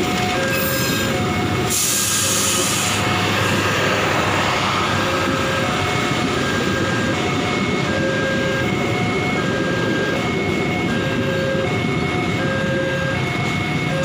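Passenger train carriages rolling past over the rails, while the level crossing's warning alarm repeats a chime that alternates between two notes about every second and a half. A brief high hiss sounds in the first few seconds.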